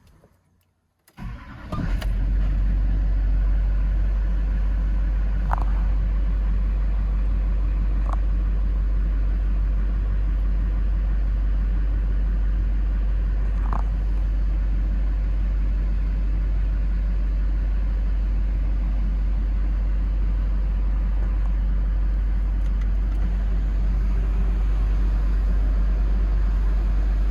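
2007 Chevrolet Silverado 2500HD's engine cranking and catching about a second in on a cold start, then settling into a steady idle with a heavy low rumble. A few brief high chirps sound over the idle.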